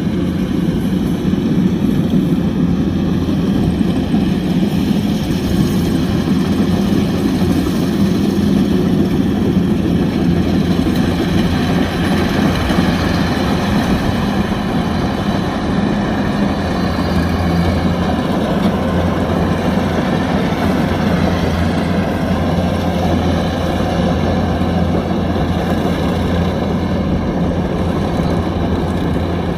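Kubota DC-105X combine harvester's diesel engine running steadily under load while harvesting rice, its pitch wavering slightly partway through.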